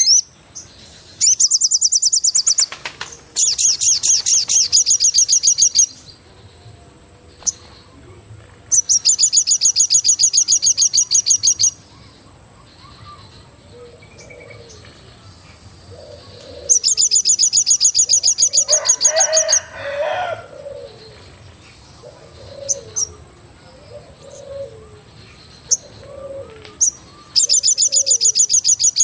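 Forest ambience with birdsong: a loud, high, rapid trill comes in bouts of two to three seconds, five times, over a steady high-pitched whine. From about halfway through, soft low calls repeat roughly once a second.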